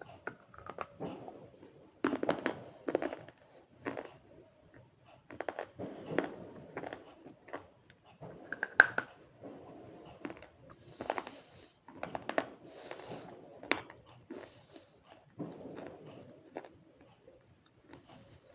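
A person biting and chewing hard, crunchy slate pencil and multani mitti (Fuller's earth clay) close to the microphone, in irregular crunches with a sharp loud crack about nine seconds in.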